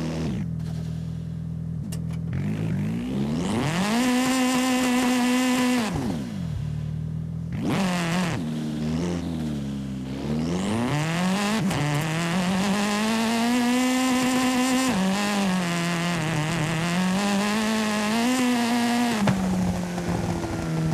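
A car engine in a driving video game, revving up and down as the car accelerates, shifts and slows. Its pitch climbs, holds and drops several times.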